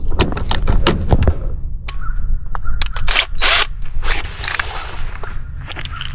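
A run of sharp clicks and knocks with a few short scrapes, from hands working a generator power plug and its wiring.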